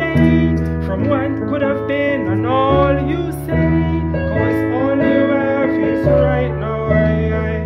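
A voice singing a slow chant over acoustic guitar, the guitar holding each chord for about a second or two while the melody bends and slides above it.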